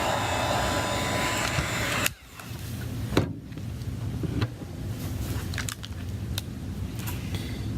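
Hot-air blower running and switched off about two seconds in, used to soften the adhesive under an iPad Air battery. Then come scattered small clicks and scrapes of tools prying at the glued battery over a low hum.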